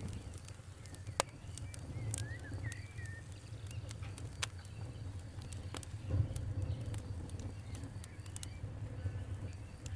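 Wood fire crackling, with sharp pops scattered irregularly over a steady low rumble. A bird chirps a few times between about two and three seconds in.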